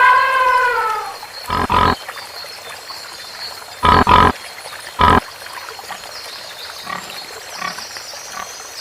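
An animal calling: a falling, drawn-out call fades out in the first second, then come short loud grunts, two close together, another two, then a single one, over a faint steady high-pitched background tone.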